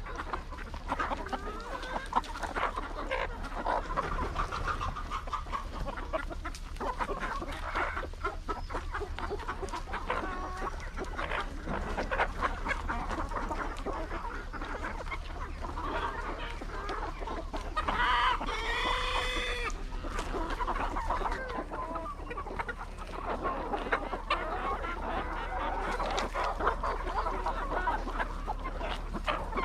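A flock of hens clucking, with many short overlapping calls; about two-thirds of the way through, one bird gives a longer, clearly pitched call lasting about a second and a half.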